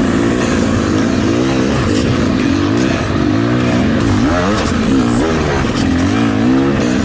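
Rieju MR300 dirt bike engine revving up and down in quick surges as it works over a steep, rooty climb, with a few light clatters.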